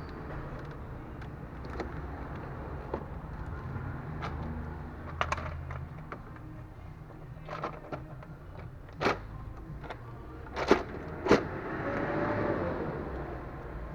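Several sharp knocks and clicks, three louder ones close together in the second half, over a steady low hum.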